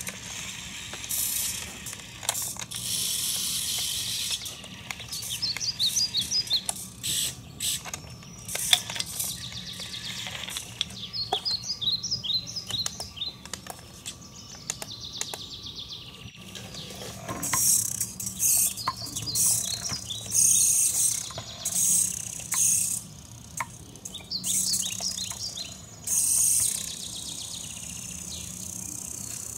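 Small birds chirping and twittering over and over, with scattered clicks and short whirring bursts from a radio-controlled model tractor's electric drive and front loader.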